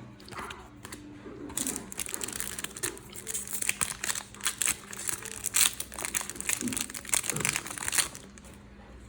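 A foil trading-card packet crinkling as it is torn open and handled, a dense crackle from about a second and a half in until near the end.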